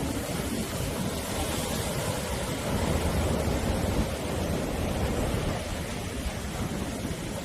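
Sea surf washing continuously onto the shore, a dense hiss with a deep rumble underneath, swelling a little about three to four seconds in.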